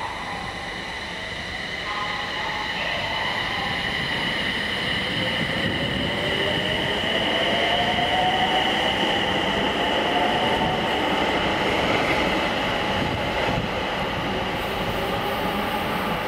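SAT721 series electric train pulling away, its traction motor whine rising in pitch as it gathers speed over steady high-pitched inverter tones and rumbling wheels on the rails.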